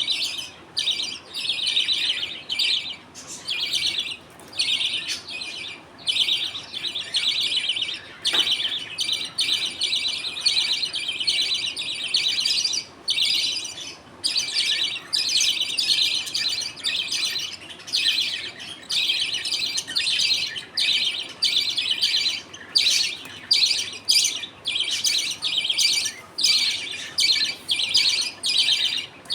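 A colony of budgerigars chirping and chattering, in dense bursts with short breaks.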